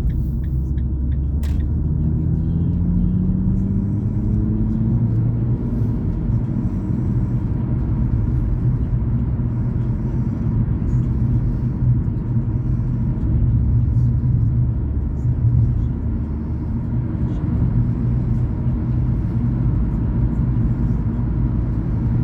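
Car driving on a road: steady low engine and road rumble. About two seconds in, the engine note rises for a few seconds as the car accelerates out of a right turn, then settles back to a steady cruise.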